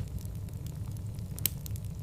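Wood fire burning in a fireplace: a steady low rumble of flames with scattered crackles and pops, the loudest pop about one and a half seconds in.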